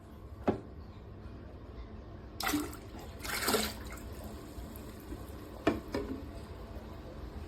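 Dreame H12 Pro wet-dry vacuum running its self-cleaning cycle in the dock: a steady low hum with two short bursts of water being drawn through the brush roller about halfway in, and a couple of sharp clicks.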